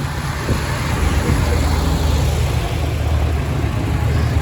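Tractor engines running as tractors pass by: a steady, loud low drone that grows slightly louder toward the end.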